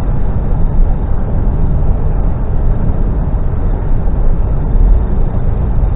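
Articulated lorry's diesel engine and tyre noise, a steady low rumble heard inside the cab while driving.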